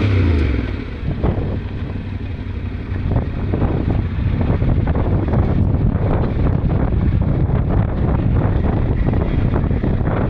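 Yamaha Ténéré 700's parallel-twin engine running steadily under way, with wind buffeting the microphone and many short knocks and rattles, as the bike rides a rough track.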